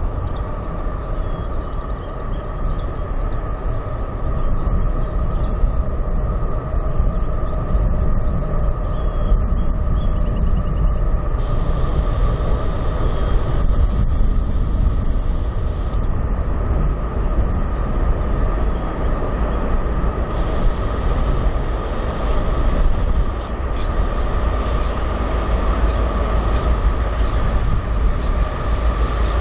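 Freight train cars rolling past at speed: a loud, steady rumble of steel wheels on rail, with a steady tone riding over it.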